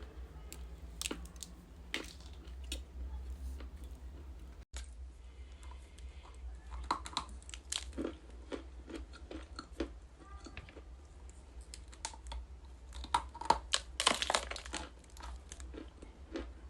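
Close-up chewing and crunching of something hard and brittle: irregular sharp crunches, with a dense, loud run of crunching about fourteen seconds in.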